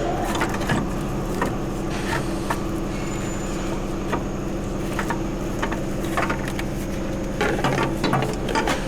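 A steady machine hum with scattered light clicks and knocks.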